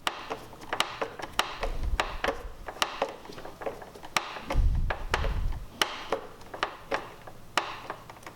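Irregular sharp clicks and taps, about one or two a second, from a Phillips screwdriver and metal terminal bolt being worked on a motorcycle battery's negative terminal, with a low thudding stretch from handling about halfway through.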